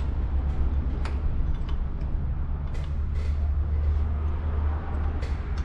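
Light metallic clicks and taps of small engine parts being handled and fitted, over a steady low rumble.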